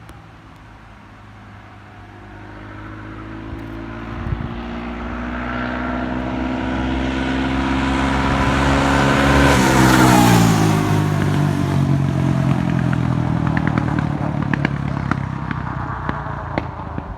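Honda 400EX ATV's single-cylinder four-stroke engine running at speed as it approaches, growing steadily louder, then passing about ten seconds in with its pitch dropping as it goes by. Scattered crackles follow near the end as it runs on.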